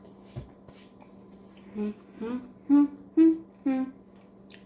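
A woman humming five short closed-mouth "mm" notes in a row with her mouth full of food, filling the pause while she chews and swallows. There is a soft knock about half a second in.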